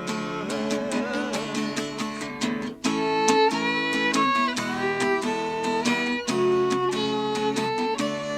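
Instrumental break of a sertanejo song: a fiddle melody over strummed acoustic guitar, getting louder about three seconds in.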